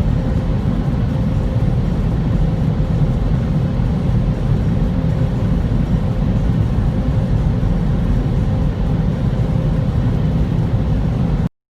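Automatic touchless car wash machinery running: a steady, loud, low rumbling noise that cuts off suddenly near the end.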